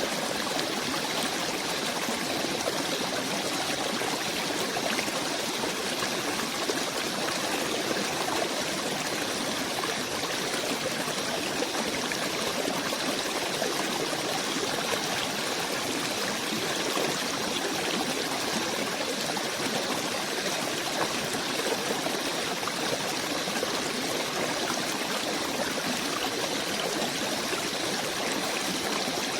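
Running water of a forest stream: a steady, even rush that neither swells nor breaks.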